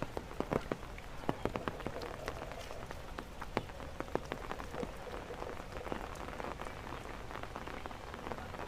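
Heavy rain falling, with many close raindrops hitting in sharp, irregular ticks over a steady hiss; the drops are thickest in the first few seconds.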